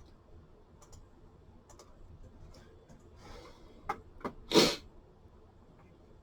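Scattered faint clicks of computer keys and mouse, then one short, loud burst about four and a half seconds in.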